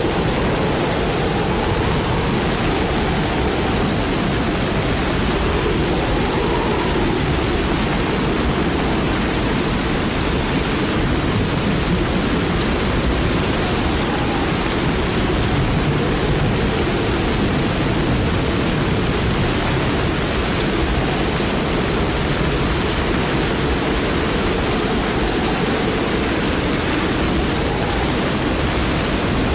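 Heavy storm rain falling in strong wind: a steady, unbroken rush of noise.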